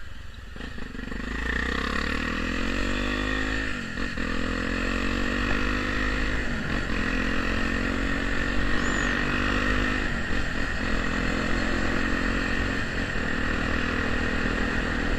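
Honda Tornado's single-cylinder four-stroke engine running through an aftermarket ProTork exhaust as the bike accelerates through the gears: the engine note climbs, drops at each of about four gear changes, and climbs again.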